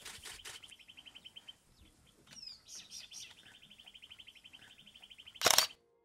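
Wild birds calling in open grassland: a fast, dry trill repeated twice, with a few short falling whistles. A single loud, sharp click cuts in near the end.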